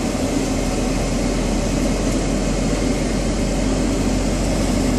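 Steady cabin noise inside a Boeing 777-300ER: a constant low drone with an even rush of air, unchanging throughout.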